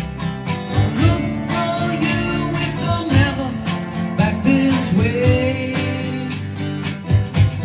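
Country-folk song led by strummed acoustic guitar in a steady rhythm, with a held, bending melody line over it.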